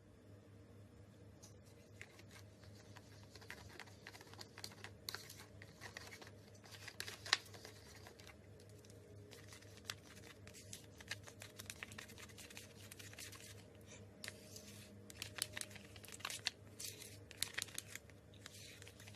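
Slime being handled: quiet, irregular crackling and popping clicks, growing busier in the second half.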